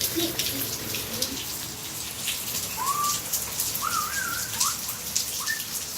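Heavy rain falling, with many individual drops ticking on a nearby surface. A bird gives a few short whistled calls about three to five seconds in.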